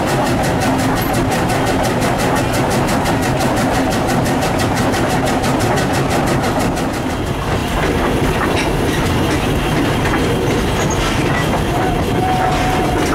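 Steady rumble and clickety-clack of a moving train, heard from the car coupled behind steam locomotive #89, a 1910-built 2-6-0. A fast regular ticking runs through the first half, a few sharp metallic clanks come in the second half, and a short steady squeal sounds near the end.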